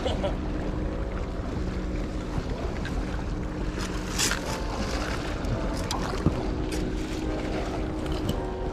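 Boat engine running steadily as a low drone, with wind on the microphone and a few sharp clicks.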